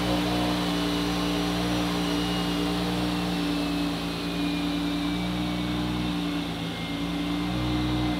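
BMW B58 turbocharged inline-six, fitted with a new Pulsar 6466 ball-bearing single turbo, running steadily at idle on its first startup after the install. A faint high turbo whistle sits over it, drifting slowly down in pitch.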